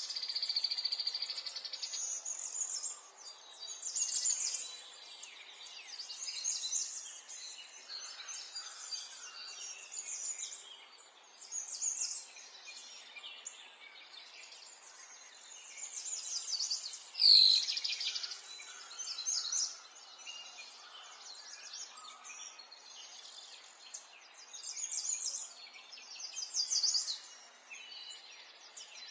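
Several songbirds singing and chirping, with repeated trills and short phrases over a faint background hiss. One loud, sharp call sweeps down in pitch about seventeen seconds in.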